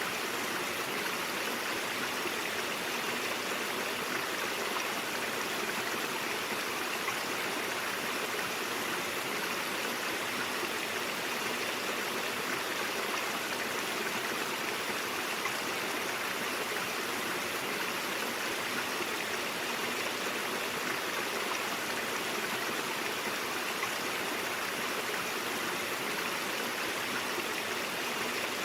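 A mountain stream flowing steadily over rocks, a constant rushing and burbling of water.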